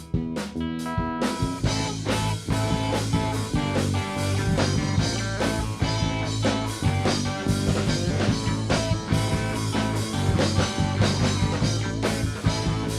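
Live rock band playing an instrumental passage: a sparse guitar line at first, then the full band with drums and bass comes in about a second in and plays on steadily.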